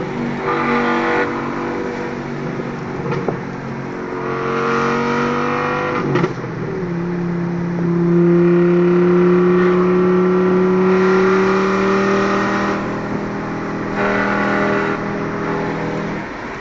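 Loud Volkswagen Golf Mk4 2.3 V5 engine and exhaust running under load, its pitch rising gradually. The pitch falls sharply about six seconds in, then climbs slowly again, loudest in the middle of the stretch.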